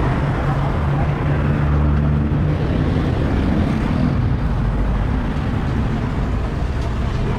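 Street traffic noise: motor vehicle engines running close by over a steady din, with one engine loudest during the first couple of seconds.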